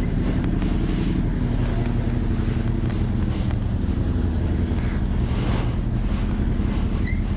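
Suzuki GSX-R 750 inline-four engine with an Akrapovic slip-on exhaust, running steadily while riding, heard over wind rushing at the helmet microphone in uneven gusts.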